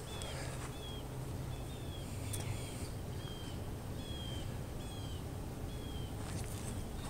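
A songbird singing a short note that falls in pitch, repeated about eight times, roughly once every three quarters of a second, over a steady low rumble.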